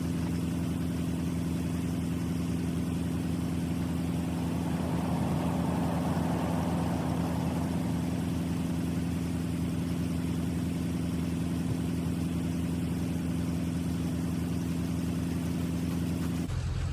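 Diesel loader engine idling steadily; the sound changes abruptly just before the end.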